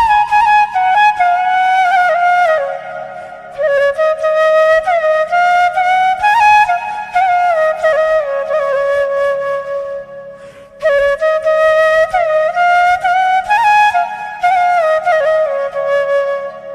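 Background flute music: a slow, ornamented melody with sliding notes, in phrases that drift downward, breaking off briefly about three seconds in and again about ten seconds in.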